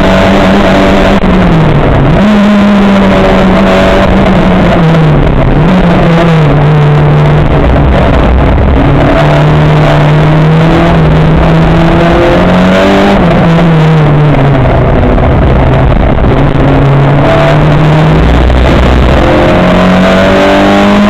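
Race car's engine heard from on board, running hard with its note dropping and climbing again with gear changes every few seconds.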